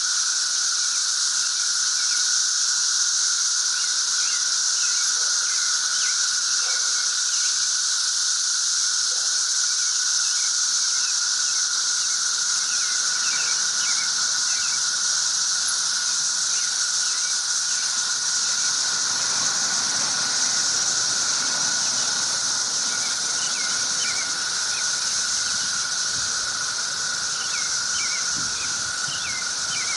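A loud chorus of cicadas forms a steady, continuous drone in a high band and a lower band. Short chirps are scattered over it, and a faint low rumble rises in the second half.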